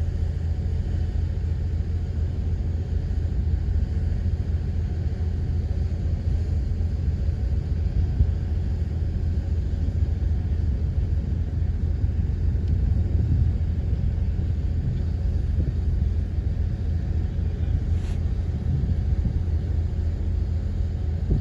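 Heavy diesel earthmoving machinery running, a steady low rumble.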